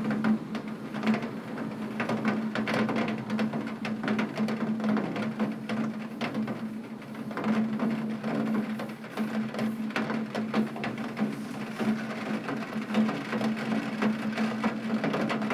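Heavy rain striking a window pane: dense, irregular taps of drops, over a steady low hum.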